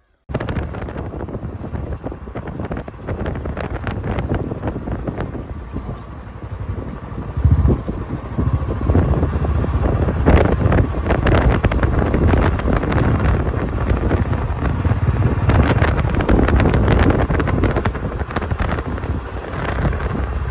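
Wind buffeting the camera microphone in irregular gusts, a deep rumbling rush that grows stronger about seven seconds in.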